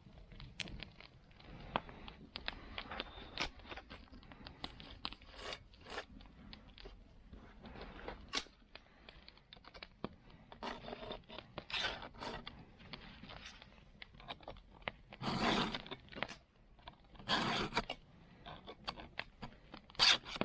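Hand work on a saw: irregular metallic scrapes and clicks, with a few longer scraping strokes in the last third.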